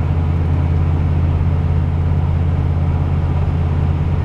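A 6.5-litre turbo-diesel V8 with a flow-through exhaust, heard from inside the pickup's cab while cruising: a steady low drone with road noise and no change in engine speed.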